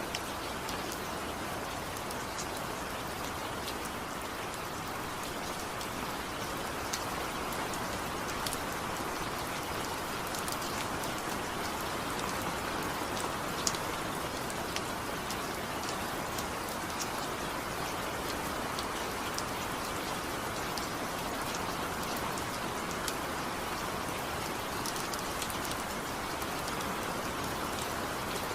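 Steady rain falling, a constant hiss with many small drop ticks scattered through it. No thunder.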